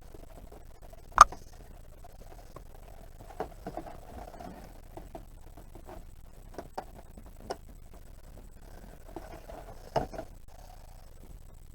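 Scattered clicks, taps and light scraping from hands working at the parts of a portable fridge that is being taken apart. A sharp knock comes about a second in and another near ten seconds.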